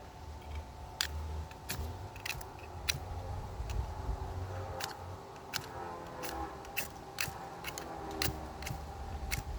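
Pocketknife scraping down a ferrocerium rod in repeated short strikes, irregularly about one or two a second, to throw sparks onto tinder. Wind rumbles on the microphone underneath.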